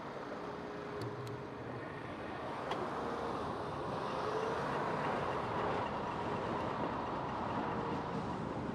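Steady road and wind noise from riding an Emmo Zone GTS 2022 electric bike, with a faint steady whine underneath and a few light clicks.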